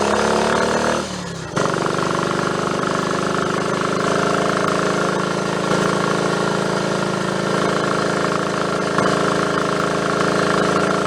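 Triumph Tiger Cub's single-cylinder four-stroke engine under way on the road. Its pitch falls, the sound drops away for half a second about a second in, as at a gear change, and then the engine pulls at a steady note.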